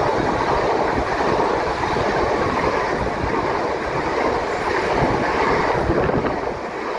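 Gatwick Express Class 387 electric multiple unit passing close along the platform: a steady, loud rush and rumble of its wheels running on the rails as the coaches go by, easing slightly near the end.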